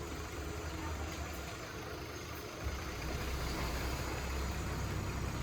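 Diesel engine of heavy earthmoving machinery running steadily, a low rumble that gets slightly louder about two and a half seconds in.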